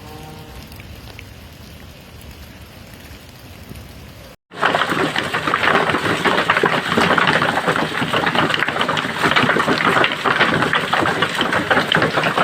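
Heavy rain falling: a soft steady hiss, then, after a sudden cut about four seconds in, a much louder dense clatter of drops striking a hard surface.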